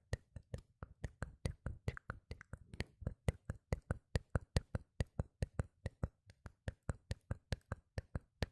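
ASMR mouth sounds close to the microphone: quick, sharp clicks, about five a second.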